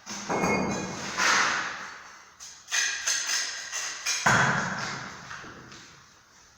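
A series of knocks and thuds at uneven intervals, each fading away, some with a short ringing tone.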